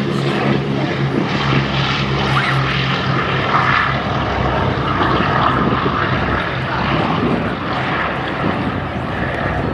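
Boeing B-17 Flying Fortress's four radial piston engines and propellers droning steadily in flight.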